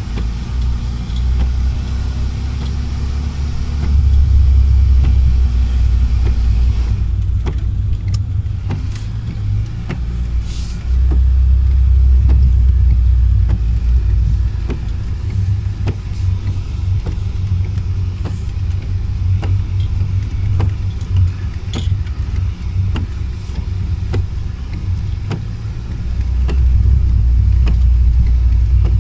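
Lada Niva's engine and drivetrain heard from inside the cabin while driving on a muddy track: a low rumble that swells louder three times as the car pulls harder, with scattered short knocks and rattles.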